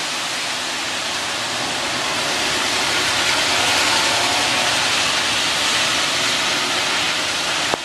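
Tropical-storm wind gust with driving rain: a loud rushing hiss that builds over the first few seconds and then holds. The gust is about hurricane force, brought down by a passing rain band.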